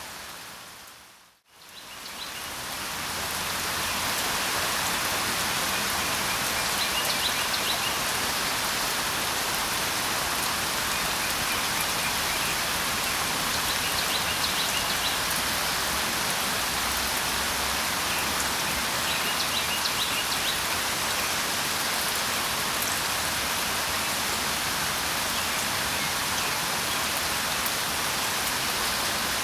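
Steady rain falling, an even hiss that dips to silence about a second and a half in and fades back up over the next two seconds, as at a loop splice. Faint short bird chirps come through the rain a few times.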